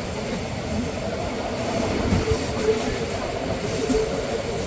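Bernina line passenger train running along the track: a steady rumble of wheels and carriages, with a faint wavering higher tone over it.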